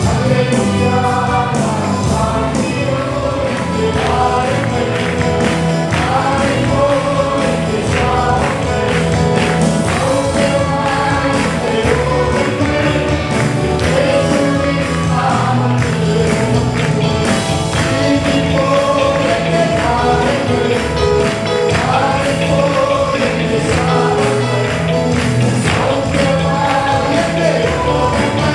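A choir singing a gospel worship song to band accompaniment, with a steady bass beat and percussion throughout.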